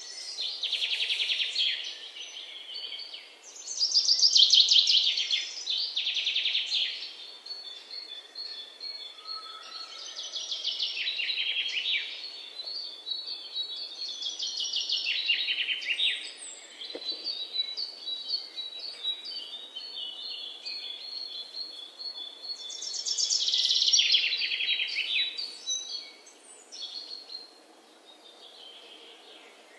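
Birds singing: loud rapid trilled phrases recur every few seconds, with runs of short repeated high chirps between them.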